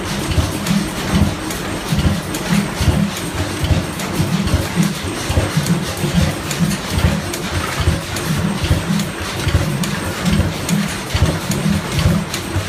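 Antique stationary internal-combustion engine running steadily, its exhaust beating in an even low rhythm of a few pulses a second.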